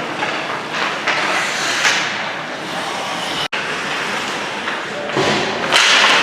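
Ice hockey game in a rink: a steady din of spectators' voices with scattered knocks from sticks, puck and boards. The sound cuts out for an instant a little past halfway, and grows louder near the end.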